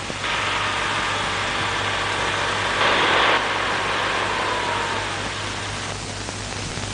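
Car engine running as the sedan drives slowly across the yard, a steady rush with a brief louder surge about three seconds in.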